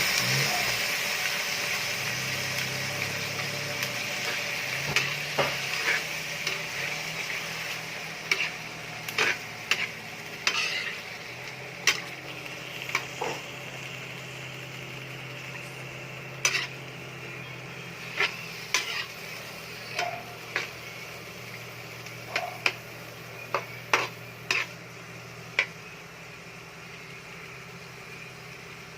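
Chicken pieces sizzling in hot oil in a pan while being stirred, with a spatula clinking against the pan at irregular intervals. The sizzle is loudest at the start and slowly dies down.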